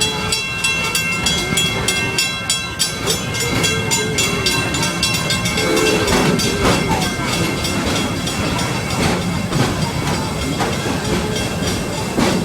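Amusement-park passenger train running along its track, heard from on board. A rapid, even clatter of wheels on rail comes through for the first few seconds before it loosens.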